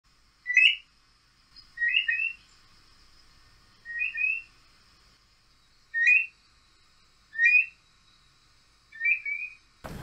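A bird's short, rising whistled call, given six times at intervals of about one and a half to two seconds.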